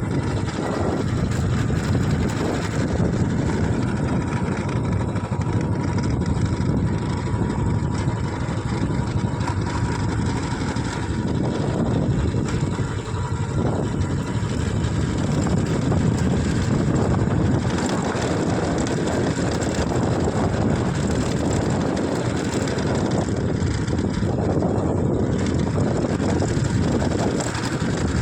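A vehicle running steadily while moving, with wind on the microphone: a constant dense rumble that barely changes.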